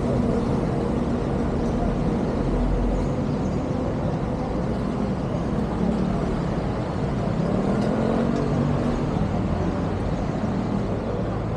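A motor vehicle engine running over steady road noise, its pitch drifting up and down.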